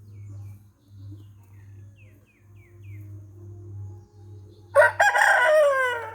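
A rooster crows once near the end, a loud call of about a second and a half that falls in pitch as it trails off. Before it come four faint, short descending bird chirps, over a low steady hum.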